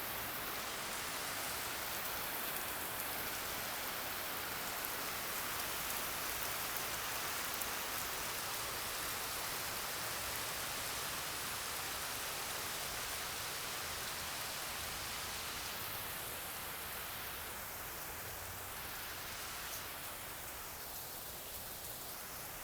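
Steady rainfall, an even hiss of drops.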